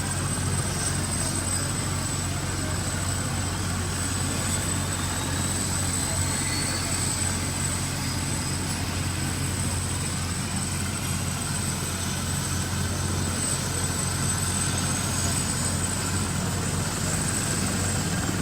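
Police helicopter running steadily: a constant low drone of engine and rotor, with a thin steady high whine above it.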